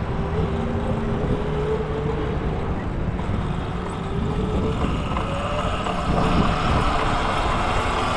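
E-Ride Pro electric mini dirt bike's motor whining at a steady pitch while riding, the whine dipping and then rising from about five seconds in as the bike speeds up and gets louder, over a low rumble of wind on the microphone.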